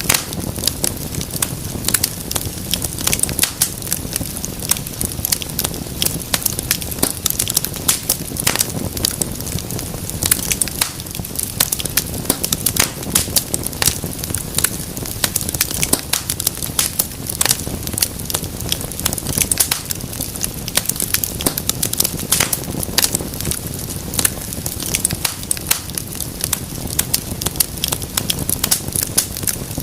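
Wood fire burning steadily, with dense, irregular crackles and pops over a low rumble of flames.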